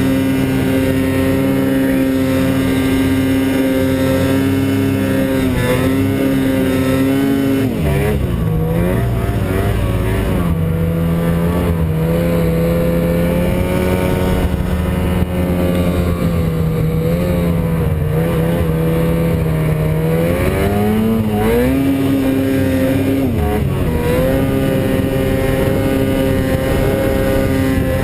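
Snowmobile engine running under throttle at a steady pitch; about eight seconds in the revs drop and stay lower and wavering, then climb back up around twenty-one seconds, with one more brief dip shortly after.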